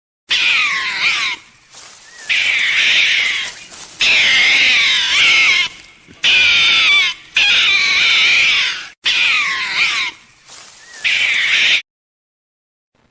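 An animal calling loudly in a series of long, wavering cries with short breaks between them.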